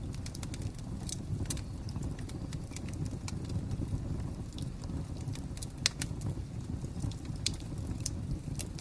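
Fire crackling: scattered sharp pops and snaps over a low steady rumble, with one louder pop about six seconds in.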